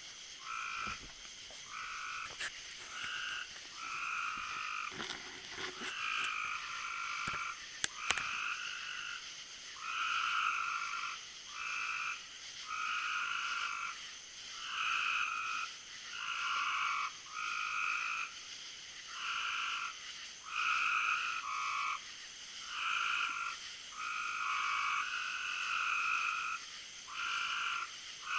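A chorus of frogs calling, short repeated calls about once a second that overlap one another. Two sharp clicks come about eight seconds in.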